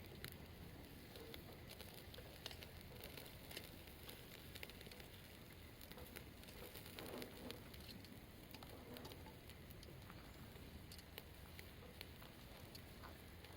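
Wood campfire crackling faintly: scattered small sharp pops and ticks over a low hiss.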